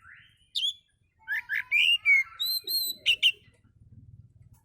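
Oriental magpie-robin (kacer) singing: a quick run of sharp chirps and clear whistled notes, which stops about three and a half seconds in.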